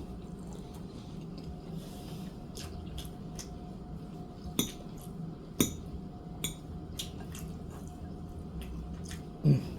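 Close-up eating sounds: wet mouth clicks, smacks and chewing of noodles, chicken and crispy shrimp, with two louder smacks around the middle. Near the end comes a short, loud sound that falls in pitch.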